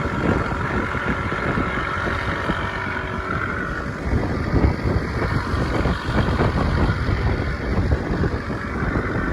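Small boat under way on a rough sea: heavy, gusty wind rumble on the microphone over the rush of water along the hull.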